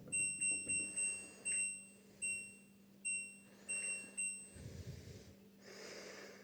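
Washing machine control panel beeping: about nine short single-tone beeps at uneven intervals as its buttons and programme dial are worked. After the beeps come soft rustling and breath noise.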